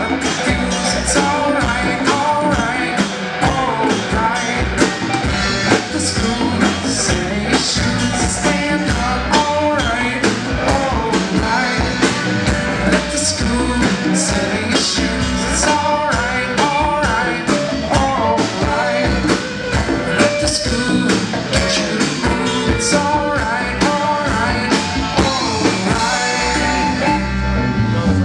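A live rock-and-roll band playing a song, with a singer over guitar and drums.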